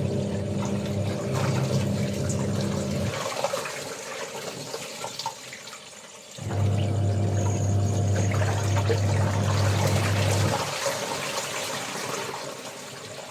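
Washing machine in its wash cycle: a motor hum with water sloshing runs for about four seconds, pauses for about three, then runs again, the stop-start rhythm of the drum or agitator turning.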